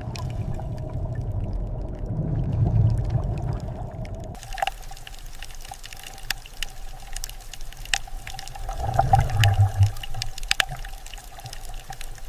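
Underwater water ambience, sloshing and trickling with a low rumble. About four seconds in it changes abruptly to a steadier hum with scattered sharp clicks and ticks, and a louder low swell near the end.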